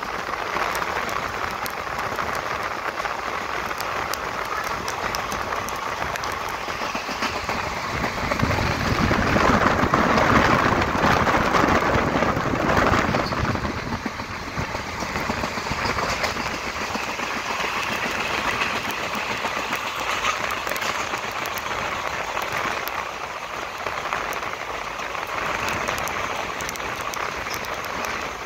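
Passenger train running along the track, heard from an open coach door or window: a steady rushing noise of wheels on rail and passing air with fine clicks, swelling louder for a few seconds in the middle.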